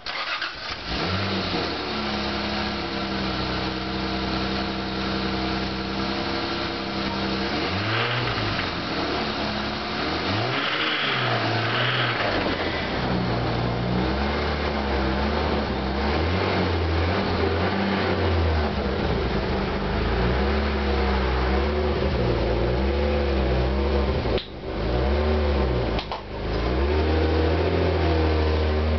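1991 Toyota Supra's 7M-GE inline-six running, revved up a few times with pitch rising and falling. It has a knock that the owner takes for rod knock, a sign of a worn connecting-rod bearing.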